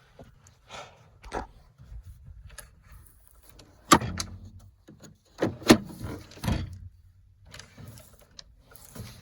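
Sharp clanks and knocks from the John Deere Gator's metal tailgate and its replacement cable being worked by hand, the loudest a few strikes around four to six and a half seconds in.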